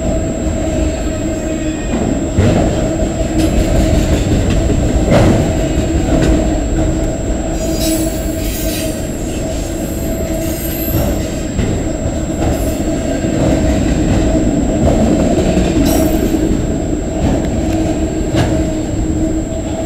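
Freight cars of a CN freight train rolling past at speed, with a steady rumble and irregular clicks of the wheels over the rail. There are brief high-pitched wheel squeals about eight seconds in and again near sixteen seconds.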